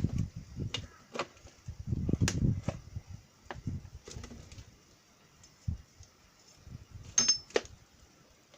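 Hand tools working on the metal wheel hub of a walking tractor: scattered knocks and clicks with a couple of low thuds, and a sharp ringing metallic clink about seven seconds in.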